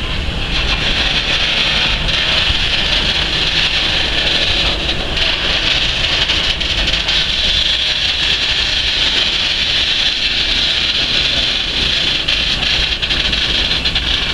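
Train running past: a steady rumble of wheels on rails with a strong, even hiss over it.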